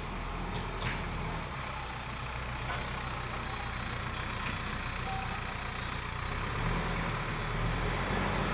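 ACE AX124 backhoe loader's diesel engine running steadily, with a few light clicks about a second in.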